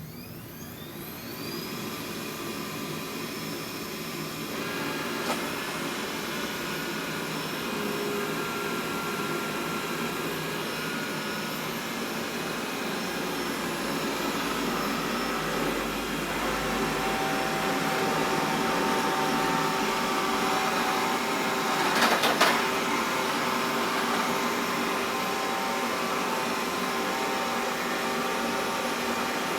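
Xiaomi Mi robot vacuum spinning up with a rising whine, then running steadily as it cleans a rug. There is a brief louder clatter of clicks about two-thirds of the way through.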